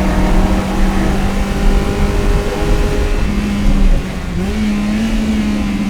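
Toyota MR-S's 1ZZ 1.8-litre inline-four running hard at high revs through an aftermarket header and Fujitsubo exhaust, its note steady. About four seconds in the engine note briefly dips and gets quieter, then settles at a slightly higher pitch.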